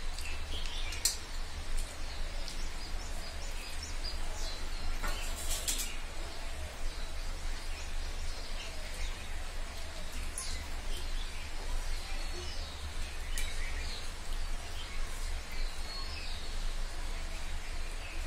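Small birds chirping on and off in the background over a steady low hum, with a few light clicks and a brief rustle about five seconds in.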